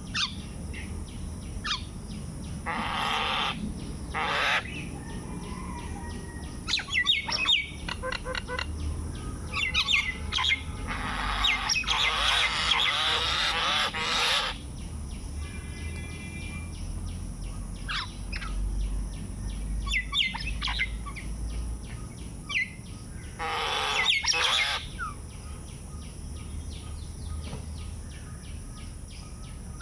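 Birds chirping and calling, with short chirps throughout and three louder, harsher bursts of calls, the longest lasting about three seconds near the middle.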